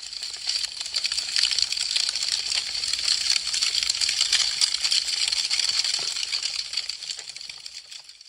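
Wood fire crackling: a dense run of small sharp pops and snaps over a hiss. It swells in over the first second and fades away near the end.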